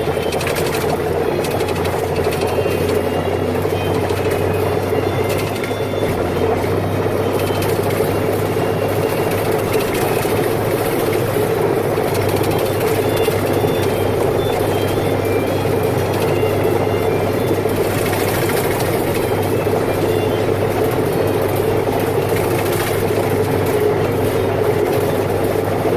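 Farm tractor engine running steadily under load, a loud, even mechanical drone with no change in pitch.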